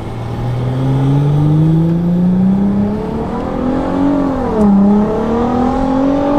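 Nissan GT-R R35 Nismo's twin-turbo V6 with a Boost Logic exhaust, heard from inside the cabin while accelerating hard under full boost, its exhaust valve fixed and out of limp mode. The engine note climbs steadily, dips briefly about four and a half seconds in, climbs again and falls sharply at the end as the car shifts up.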